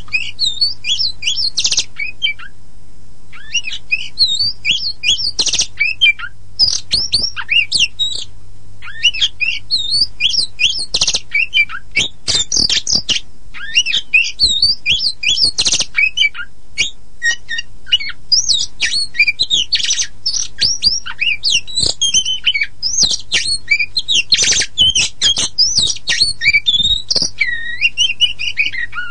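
Oriental magpie-robin, the pied 'kacer poci' form, singing a fast, varied song of whistles, chirps and harsh squawking notes, with a short pause about three seconds in. A faint steady low hum lies underneath.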